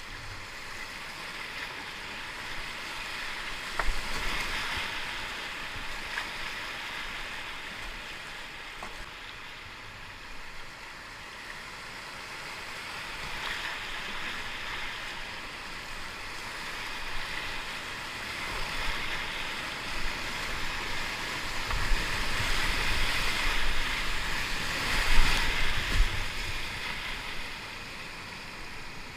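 Whitewater rapids rushing around a kayak, swelling and easing in surges and loudest a few seconds before the end, with a few sharp knocks along the way.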